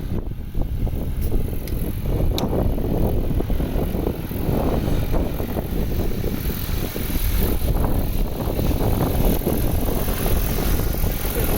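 Crop-spraying helicopter's rotors and engine running steadily and loudly as it flies over the field spreading fertiliser.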